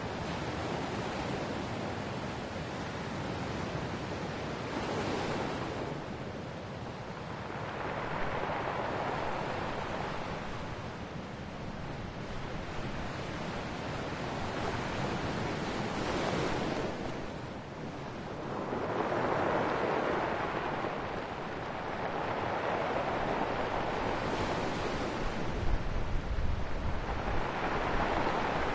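Ocean waves breaking and washing onto a shore, swelling and ebbing in a slow rhythm every few seconds over a steady surf hiss. Some low wind rumble on the microphone near the end.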